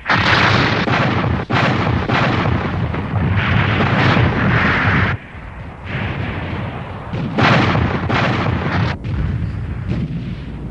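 Space-battle sound effects: a continuous barrage of explosions and weapon fire that starts abruptly and swells and eases several times.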